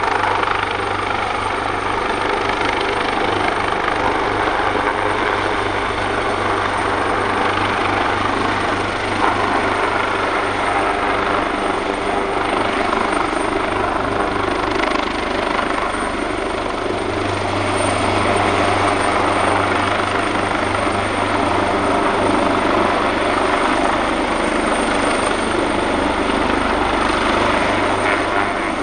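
AgustaWestland AW139 helicopter running steadily, its two Pratt & Whitney Canada PT6C turboshaft engines and five-bladed main rotor giving a constant low rotor thrum under a thin high turbine whine.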